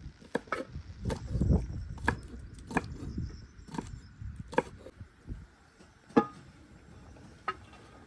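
A series of sharp, irregular knocks, about one every half second to second, the loudest about six seconds in.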